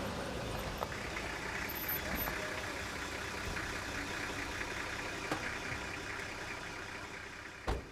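Toyota Land Cruiser's engine running as the vehicle drives slowly up a rough dirt track and pulls up, with a few light clicks and a sharp knock near the end.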